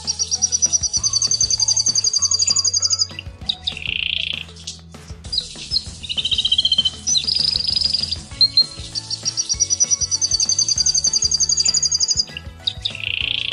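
Small finch singing, with the song titled as a canary: two long, rapid trills, each about three seconds, that rise slightly in pitch, with shorter chirps and harsh notes between them. Soft background music plays underneath.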